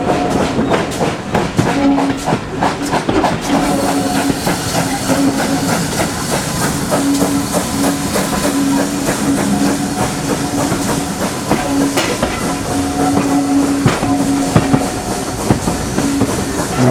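Train running along the track, its wheels clicking rapidly over the rails with a steady hum that comes and goes; a hiss joins in after a few seconds.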